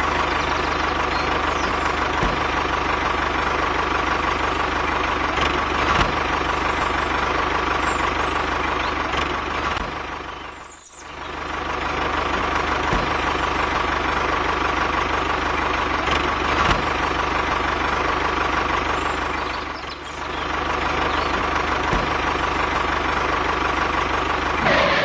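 Steady engine running sound of a mini tractor, one even pitch without a break, that fades down and back up twice, about eleven and twenty seconds in.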